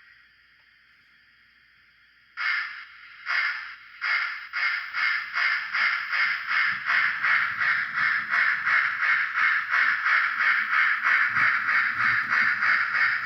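Bachmann HO-scale steam switch engine's DCC sound decoder playing steam exhaust chuffs through its small speaker. After about two seconds of quiet, single slow chuffs start and quicken into a steady beat of about three a second as the locomotive gets under way.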